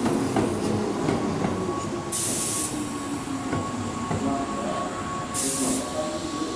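Keihan electric train running slowly at the platform, with a low rumble and a thin steady whine. Twice there is a short burst of air hissing, about 2 seconds in and again about 5 seconds in.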